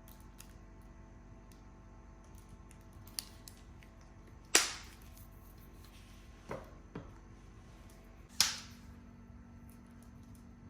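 Wood burning in a fireplace, giving a few sharp pops and cracks: two loud ones about four seconds apart and some smaller ones between.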